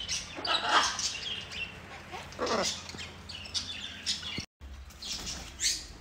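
Pet birds chirping in short, scattered calls, with a couple of lower calls that fall in pitch.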